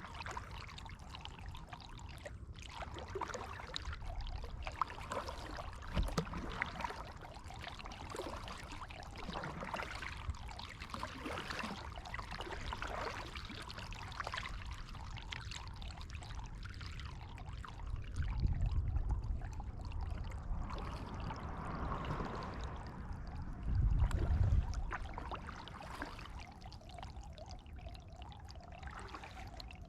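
Water splashing and trickling off kayak paddle blades as the boat is paddled along. Two louder low rumbles come in the second half.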